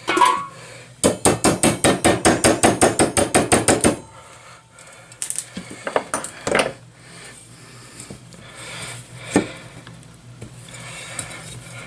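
Hammer tapping at a hardened old seal in an outboard lower-unit gear case to drive it out: a quick run of about twenty sharp metallic taps in three seconds, then a few scattered single knocks.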